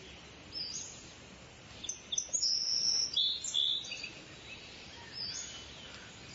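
Birds chirping and whistling with short high calls, busiest and loudest around the middle, over a steady soft outdoor hiss.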